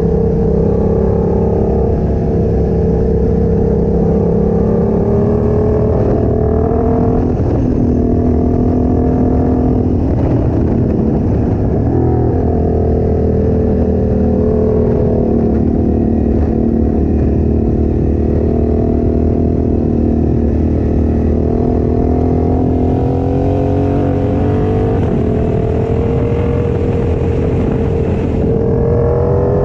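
Motorcycle engine running steadily under way, heard on board the bike. Its pitch dips and climbs back a couple of times in the first half, as the bike slows and speeds up through the bends.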